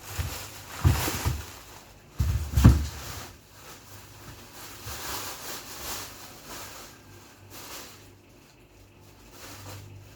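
Frozen food packages in plastic bags being handled and set down while a freezer is emptied. Two clusters of knocks come about a second in and again around two and a half seconds in, with rustling and a low steady hum underneath.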